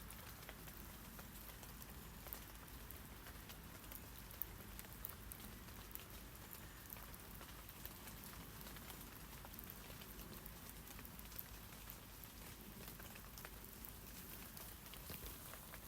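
Rain falling on tree leaves: a steady, quiet hiss of rain with many scattered light drop ticks.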